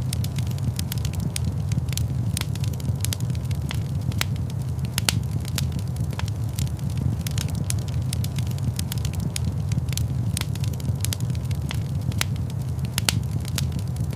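Fireplace fire crackling, with frequent sharp irregular pops over a steady low rumble.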